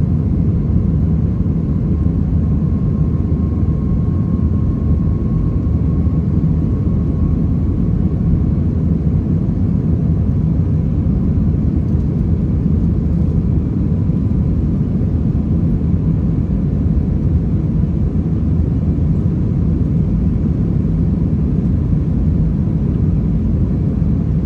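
Steady, loud rumble of an Airbus A320-200's engines and airflow heard inside the cabin from a rear window seat during takeoff, with a faint steady whine over it in the first several seconds.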